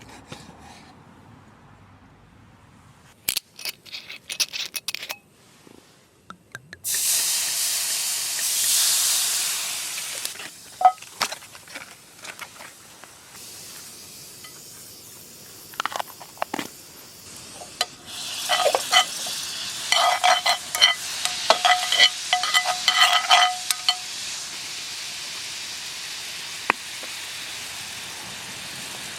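Venison steak sizzling in a hot frying pan: the sizzle surges about a quarter of the way in, then eases to a steady hiss. A run of ringing metal clinks and scrapes against the pan comes about two-thirds of the way through.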